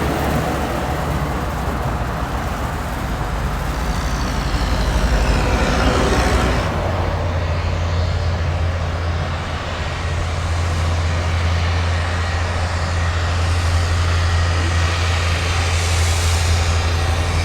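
Heavy snow-plow truck's diesel engine running, with tyre and traffic noise as vehicles pass. A low, steady engine hum takes over from about a third of the way in.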